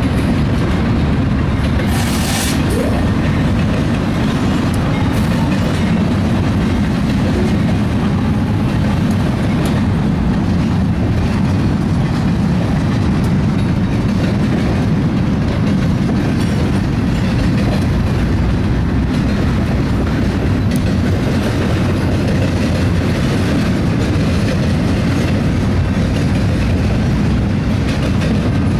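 BNSF double-stack intermodal container train rolling past close by: a steady loud rumble of steel wheels on the rails, with a brief high hiss about two seconds in.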